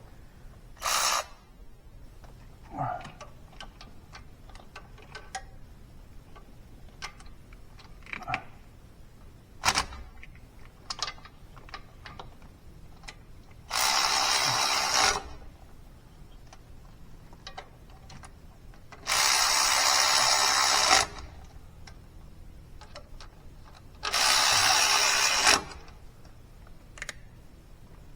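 A handheld power tool run in three bursts of about one and a half to two seconds each, with scattered clicks and knocks of tools and parts between them.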